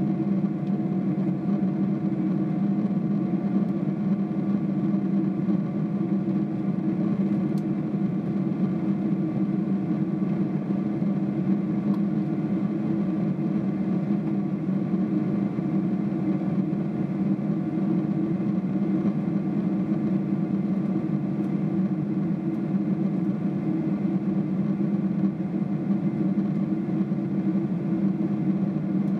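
Steady cabin drone of a Singapore Airlines Boeing 777-300ER, its GE90 engines and airflow heard from inside the passenger cabin. It is a constant low hum with a hiss over it that does not rise or fall.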